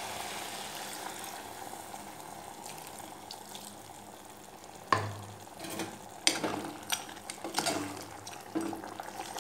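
Chicken in masala sizzling in a pressure cooker pot, with a steady hiss. From about five seconds in, a metal spoon stirs and scrapes against the pot with several sharp clinks.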